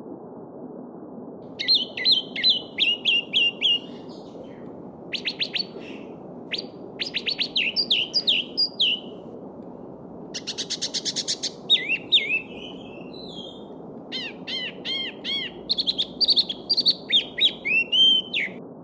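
Small songbirds singing in phrases of quick, clear repeated notes, one giving a fast trill about ten seconds in, over the steady rush of a babbling stream.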